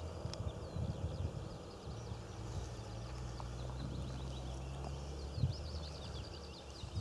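Small birds chirping in quick, high, downward-sliding notes, more of them near the end, over a steady low rumble.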